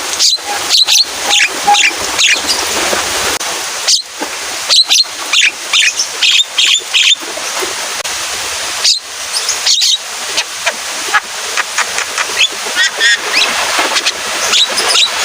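Javan myna (jalak kebo) singing loudly in rapid runs of sharp, harsh notes, chatters and short whistles, over a steady hiss of rain.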